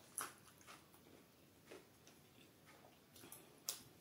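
Close-miked chewing of a mouthful of food: soft, wet mouth clicks and smacks every half second or so, the loudest just after the start and another near the end.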